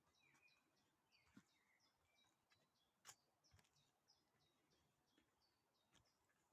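Faint birdsong: a rapid run of short high chirps, about three a second, with a few sharp clicks, the loudest about three seconds in.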